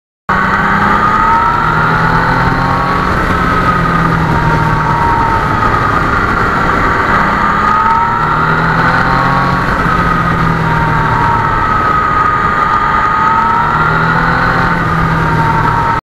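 Yamaha MT-09 motorcycle running under way, with loud steady wind and road noise and a whine that rises and falls slowly every few seconds.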